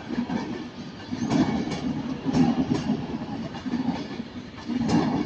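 Class 390 Pendolino electric train running into the platform. Its wheels click over rail joints and pointwork in pairs, a pair about every second, over a steady rumble.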